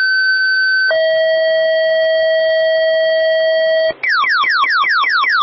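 Synthesized electronic tones. A short high steady beep gives way, about a second in, to a longer lower steady tone. About four seconds in, a rapid warble of falling pitch sweeps begins, about six a second.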